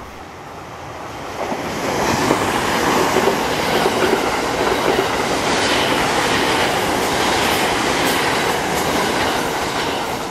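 Thunderbird limited-express electric train passing at speed, wheels running on the rails. The sound builds over about two seconds, holds steady, and begins to fade near the end.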